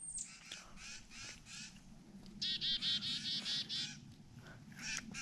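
Wild songbirds calling: faint calls at first, then a quick run of about eight harsh, repeated notes about halfway through.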